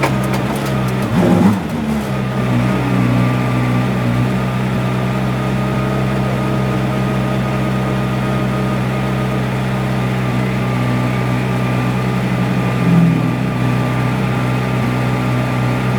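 GT3 race car engine idling steadily, with a short rev blip about a second in.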